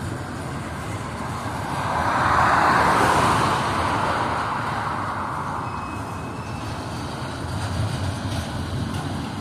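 Autorack freight cars rolling past: a steady rumble of wheels on rail that swells louder about two to three seconds in, then eases.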